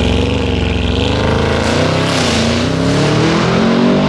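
Heavily modified Audi RS7's twin-turbo V8 launching and accelerating hard. The pitch climbs, drops back about two seconds in as if at a gear change, then climbs again.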